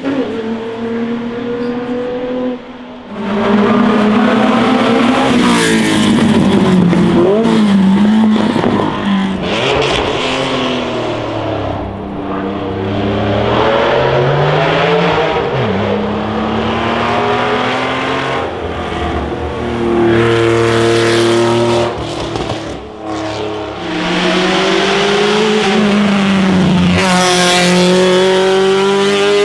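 Classic and racing car engines accelerating hard up a hillclimb, one car after another, each revving up and dropping in pitch at every gear change.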